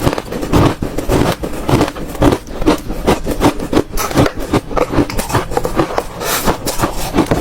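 Hard ice being crunched between the teeth, a steady run of loud, sharp crunches about three a second.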